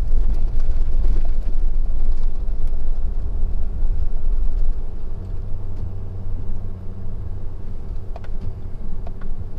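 2017 Ford F-250's 6.7-litre Power Stroke turbodiesel V8 running under load as the plow truck pushes heavy wet snow in four-wheel-drive low: a steady, deep rumble.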